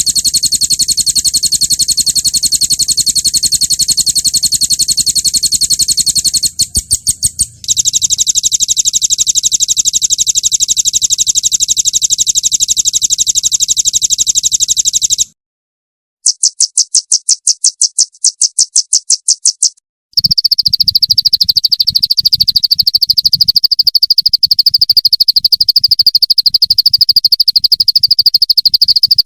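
Songbird recordings spliced together: a long, fast, high-pitched trill that breaks briefly about seven seconds in, then resumes and stops abruptly. After a short gap comes a run of slower, evenly pulsed high notes, and after another cut a steady, fast trill set a little lower.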